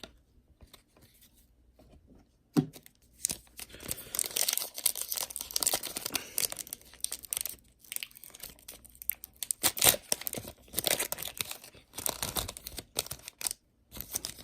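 A trading-card pack wrapper being torn open and crinkled by hand: a sharp click a few seconds in, then a long run of crackling and tearing with a few loud rips.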